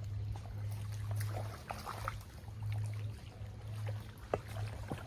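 Water splashing and dripping around a fishing kayak, with scattered clicks and knocks and a sharper knock about four seconds in, over a steady low hum.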